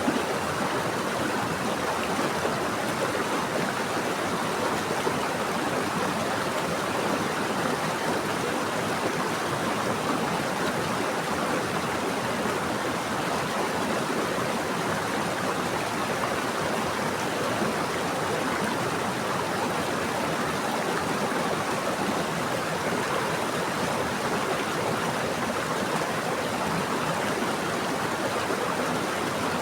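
Steady rushing of flowing water, like a stream or river running over rocks, with no breaks or distinct splashes.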